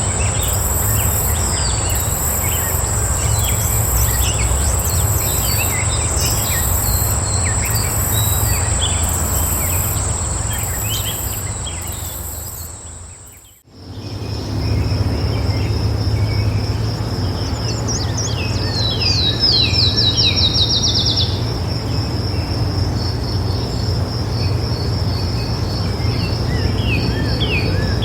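Outdoor nature ambience of insects and birds: a steady, very high insect trill with scattered short bird chirps, over a low steady rumble. About halfway through it fades out and cuts to another recording, with a lower, pulsing insect trill and a bird's rapid run of quick descending notes, then more chirps near the end.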